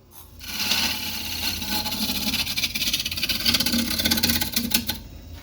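A carbide tool cutting a spinning yellow cedar and walnut bowl blank on a wood lathe. It makes a steady scraping hiss with many quick ticks over the low hum of the lathe motor. The cutting stops near the end.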